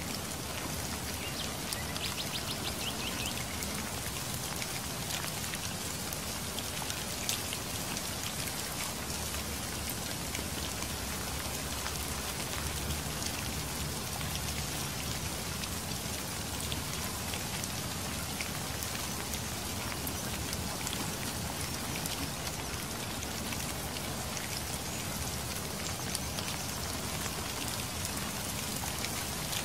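Steady rainfall: a continuous hiss of rain with many distinct single drop hits throughout.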